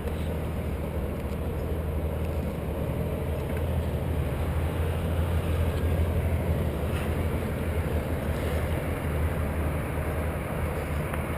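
An engine running steadily with a low drone, a little louder in the middle.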